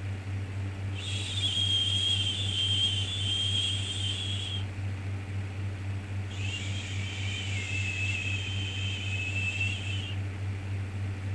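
A long, soothing 'shhh' shushing sound for calming a baby, repeated twice, each one about four seconds long with a pause between them, over a steady low hum.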